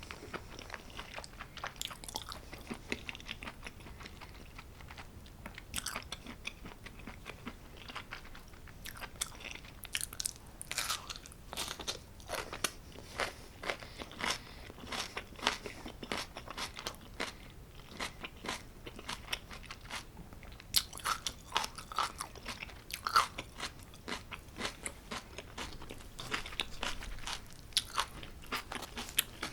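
Close-miked eating sounds of homemade pizza being chewed: many small crunches, wet clicks and crackles of crust, cheese and roasted vegetables, coming in clusters with short pauses.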